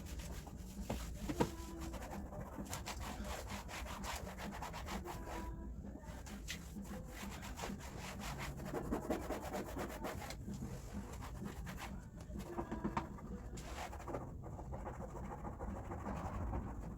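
Repeated scrubbing and wiping strokes rubbing against a surface, with scattered light clicks and knocks.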